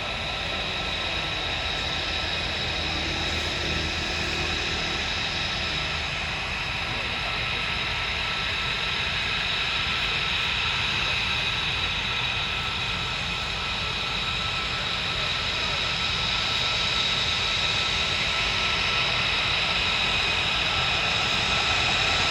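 Jet aircraft engines running with a steady high whine over a low rumble, slowly growing louder.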